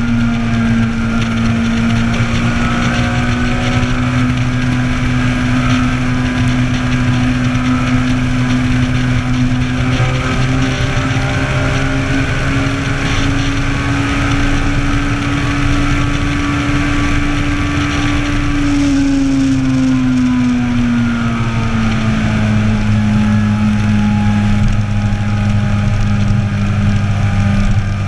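Inline-four motorcycle engine running under way at a steady cruise, with wind rushing past. The engine note climbs slowly, drops off over a few seconds about two-thirds of the way through as the bike slows, then holds steady again.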